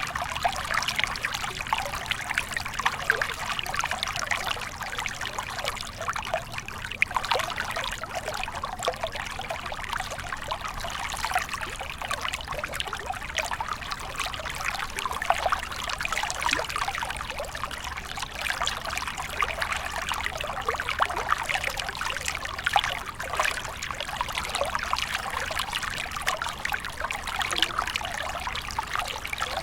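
A small water stream flowing steadily, with a continuous babbling trickle over stones.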